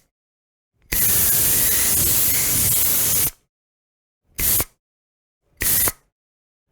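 Deodorant spray can hissing: one long spray of about two and a half seconds, then two short puffs, with a faint whistle in the hiss.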